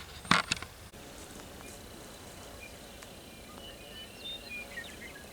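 A few sharp knocks, then faint short high chirps over a steady outdoor background.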